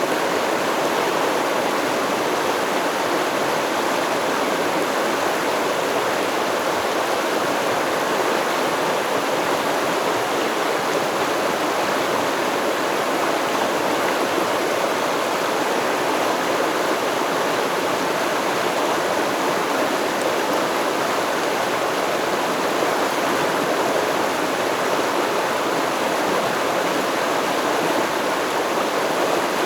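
Stream water running over rocks: a steady, unbroken rushing.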